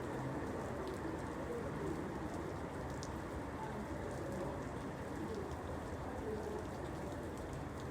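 Steady rain falling, with scattered sharp drop ticks. Through it a bird calls with faint, low, wavering notes.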